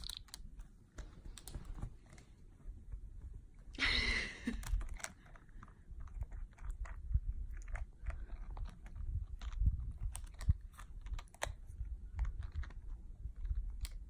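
Scattered small crunches and clicks of hands preparing crunchy snack food, with a brief rustle about four seconds in.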